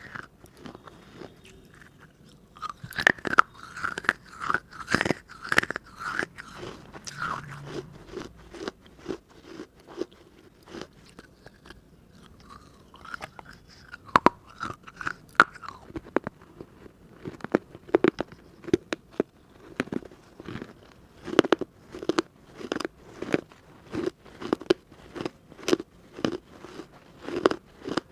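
A baked-clay diya (earthen oil lamp) being bitten and chewed close to the microphone: hard, sharp crunches, scattered at first, then a steady chewing rhythm of about three crunches every two seconds in the second half.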